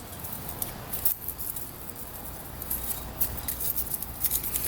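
Faint, scattered metallic clicks and ticks of a feeler gauge's thin steel blades being handled and slid into a piston ring's end gap, checking the gap size.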